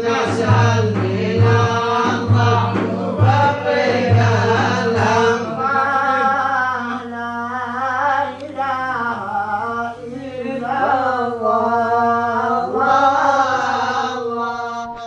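A man singing a Sufi devotional hymn (inshad) in a wavering, melismatic line over a steady held drone. A low drumbeat sounds about once a second for the first five seconds, then stops while the voice carries on.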